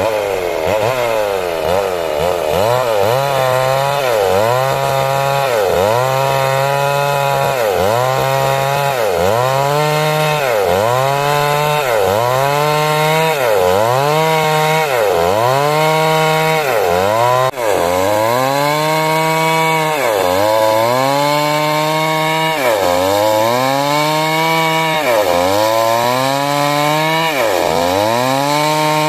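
382 chainsaw running under load through timber, its engine pitch sagging and climbing back in a steady rhythm about once every second and a bit as the cut goes on.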